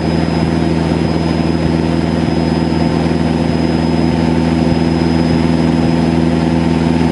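Cessna 152's Lycoming four-cylinder engine and propeller droning steadily in flight, holding an even pitch.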